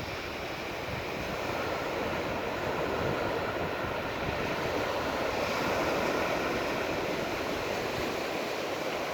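Surf washing onto the beach, a steady rush that swells slightly about two-thirds of the way through, with wind buffeting the phone's microphone.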